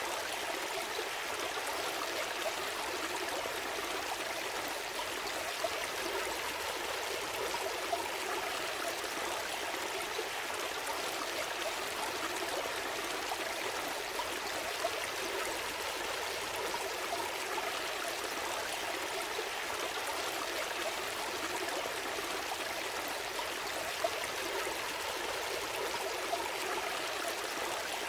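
A small stream flowing and trickling steadily, with small splashes and gurgles.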